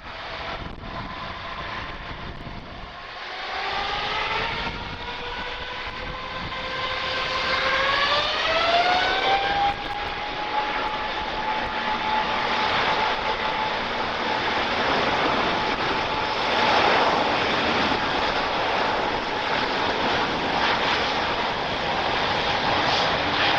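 Airbus A350's Rolls-Royce Trent XWB turbofan engines spooling up for takeoff: a whine rises in pitch over several seconds, then levels off into a steady high tone over loud jet roar at takeoff thrust.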